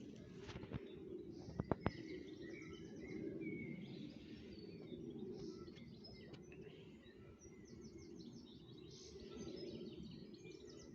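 Small songbirds chirping and twittering repeatedly over a steady low background noise, with two sharp clicks close together just under two seconds in.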